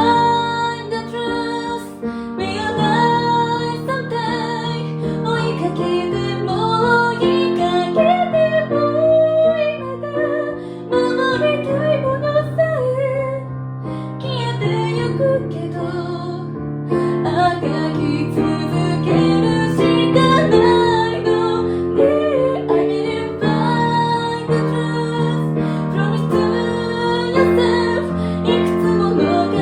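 Female voice singing to her own piano accompaniment: a sung melody over sustained piano chords and bass notes.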